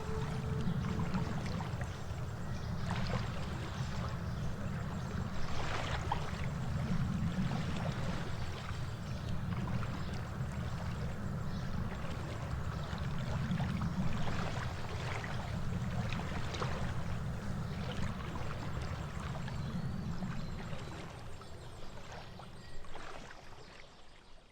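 Lakeside water ambience: small splashes and trickles of water over a steady low rumble, fading out near the end.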